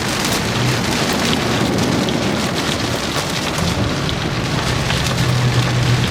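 Rain pattering on a car's windshield and roof, heard from inside the moving vehicle, with many small drop impacts over a steady wash of noise. A low drone from the vehicle grows stronger about four seconds in.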